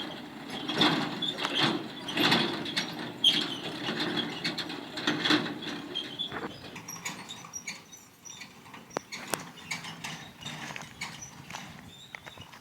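Hydraulic excavator at work: its engine running under load with repeated clanks and rattles from the arm and bucket. The engine surges in the first half and then drops back, leaving scattered clicks and knocks.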